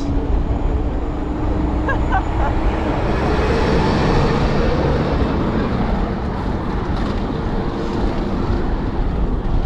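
Wind buffeting a bike-mounted action camera's microphone, with tyre and road noise from the moving bicycle. Road traffic swells past about three to five seconds in.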